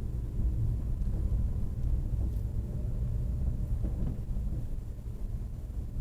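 Low, steady rumble of car engines, with wind buffeting the microphone.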